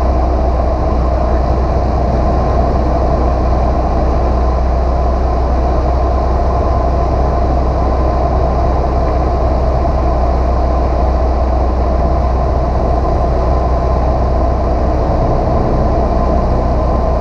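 Small single-engine piston airplane's engine and propeller droning steadily in flight, heard inside the cockpit.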